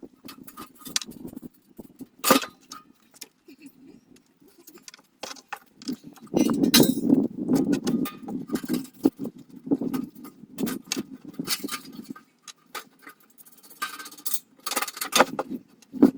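Metal parts clinking and knocking as chimney hardware is handled and fitted, with a stretch of duller scraping and handling noise in the middle.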